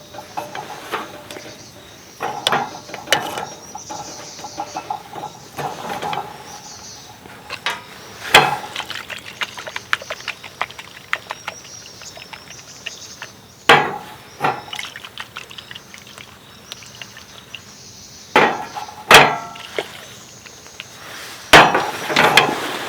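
Irregular clattering and handling noises of hard objects, with a handful of sharp, loud knocks spaced several seconds apart.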